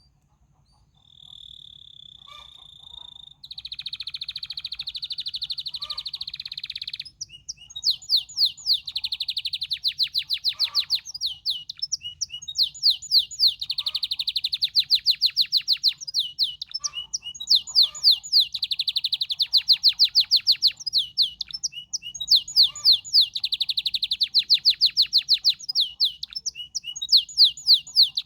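Canary singing: a held whistled note, then a buzzing roll, then repeated rapid trills in phrases about two seconds long, each followed by a short pause.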